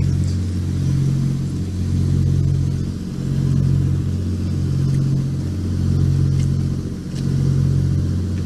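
Engine running steadily: a low hum that swells and fades about once a second.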